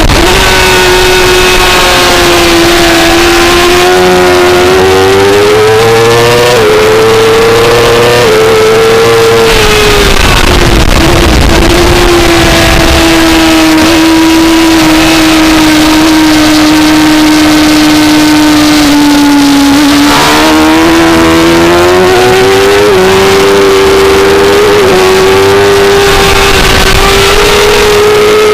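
A 2004 Suzuki GSX-R600's inline-four engine running hard at high revs under race throttle, heard on board with loud wind rush. Its pitch climbs with short steps as it shifts up, holds nearly steady for a long stretch, then drops briefly about two-thirds of the way through before climbing again through the gears.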